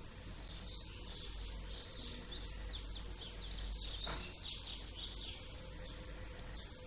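Small songbirds chirping, many quick down-slurred chirps overlapping, busiest in the middle, over a steady low background rumble.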